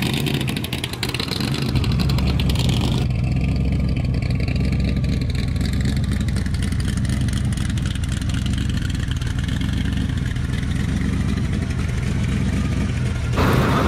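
Supercharged engine of a pro street Chevy S-10 pickup running steadily at low speed. It gives a loud, low engine tone with little change in pitch. The sound changes abruptly about three seconds in and again near the end.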